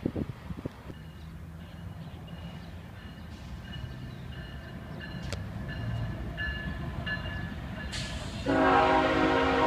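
A train's low rumble slowly grows louder as it approaches. About eight and a half seconds in, the locomotive's air horn starts abruptly and loudly and holds.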